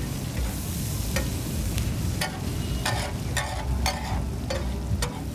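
Chicken pieces frying in ghee on a large flat tawa griddle, sizzling, while a metal spatula scrapes and clacks against the griddle about ten times, over a steady low rumble.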